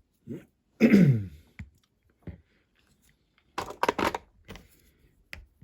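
A man's short wordless vocal sound, a falling 'hmm' or grunt, about a second in, followed a few seconds later by a quick cluster of sharp clicks and taps from small model parts being handled on the bench.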